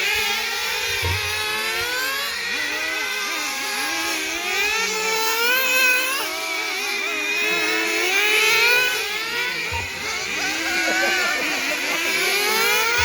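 Several engine-powered radio-control cars racing together, their small nitro engines revving up and down in many overlapping whines that rise and fall in pitch.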